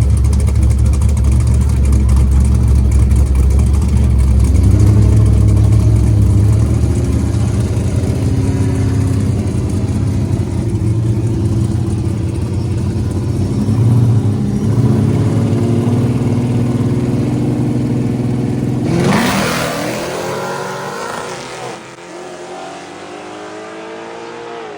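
V8 muscle car engines rumbling at idle, then about nineteen seconds in one launches hard, its note sweeping sharply up as it accelerates away and fades, rising again near the end.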